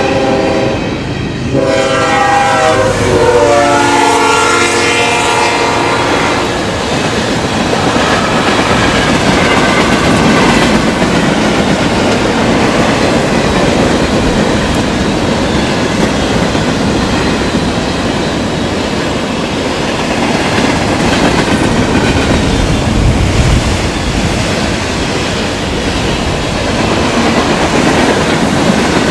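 Train horn sounding a chord briefly, then again for about five seconds, as a train runs past at about 60 mph. The loud, steady rush and rumble of the passing train carries on after the horn stops.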